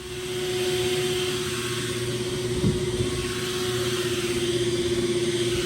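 Duct-cleaning machine running: a steady rush of moving air with a constant mid-pitched hum and a slight even pulsing, starting abruptly.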